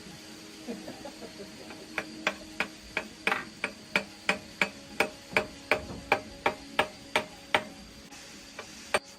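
Hammer blows struck in a steady series, about three sharp strikes a second for some five seconds, beginning about two seconds in, followed by two lighter taps near the end.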